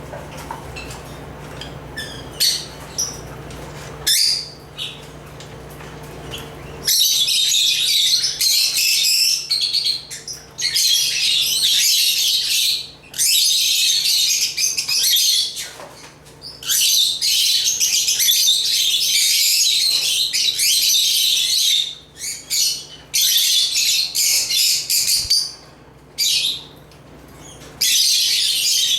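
African lovebirds chattering: a few scattered chirps at first, then from about seven seconds in long, dense bouts of high-pitched chirping, broken by gaps of a second or two. A faint low hum lies under the first few seconds.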